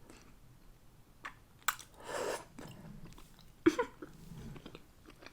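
Close-miked chewing and biting of food, wet mouth noises with a couple of sharp clicks.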